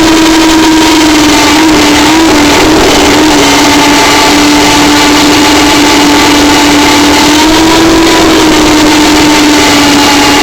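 T-55 model helicopter running with a steady high hum, loud and close, its pitch dipping and recovering briefly about two seconds in and rising slightly around eight seconds.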